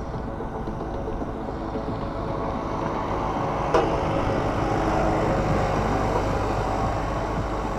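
A motor vehicle going by on the road, its steady noise swelling to a peak about five seconds in and then easing off. There is a single sharp click shortly before the peak.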